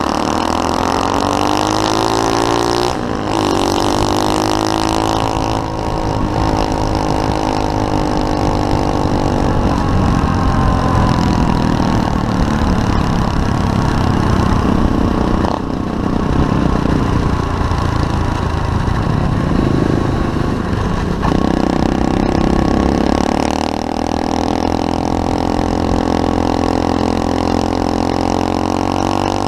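SSR 125cc pit bike's single-cylinder four-stroke engine being ridden, its pitch rising and falling with the throttle, with brief drops several times.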